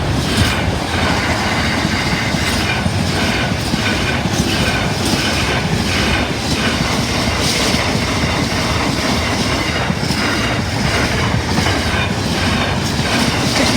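LNER Class 801 Azuma high-speed train passing at speed close by: a steady, loud rush of air and running gear with a rhythmic clatter of wheels over rail joints.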